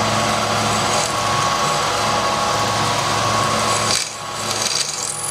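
Left-hand twist drill cutting into a broken stud on a machine spindle running in reverse: a steady rasping cut over the machine's motor hum. The cutting sound drops away about four seconds in, then starts to return.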